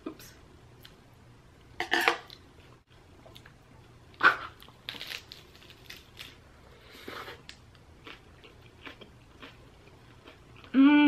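Close-up eating sounds of a lettuce wrap: a few crisp crunches as the fresh lettuce and chicken are bitten, then softer chewing. Near the end comes a short hummed voice sound that falls in pitch.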